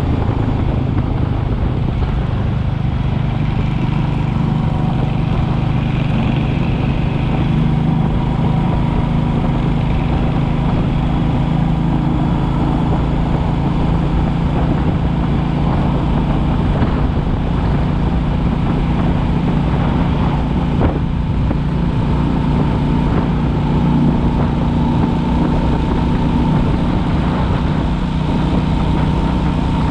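Royal Enfield Classic 350's single-cylinder engine running steadily as the motorcycle is ridden at a fairly even speed.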